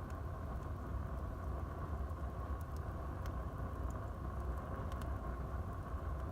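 Wood fire burning in a fireplace: a steady low rumble and hiss of the flames, with a few faint, sharp crackles from the burning wood.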